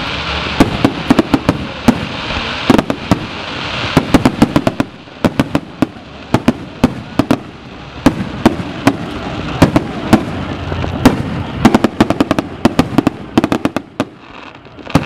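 Aerial fireworks display: shell after shell bursting in quick, irregular succession, at times several reports a second, easing briefly near the end.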